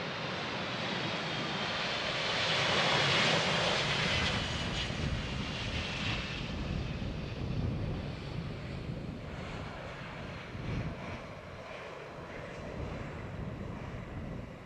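Jet airliner passing by, its engine whine falling in pitch, the noise loudest about three seconds in and then slowly fading away.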